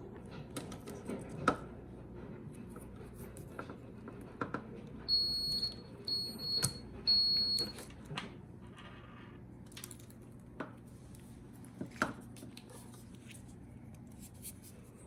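An electronic beeper sounds three high, steady beeps of under a second each, near the middle. Scattered clicks and knocks of handling come before and after.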